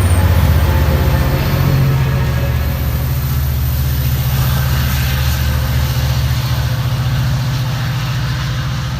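Diesel locomotive engine running close by, a loud steady low throb that eases slightly toward the end.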